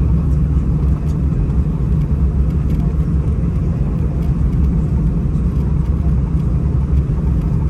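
Airbus A319 cabin noise: the twin jet's engines and airframe give a steady, loud low rumble as the aircraft moves for takeoff.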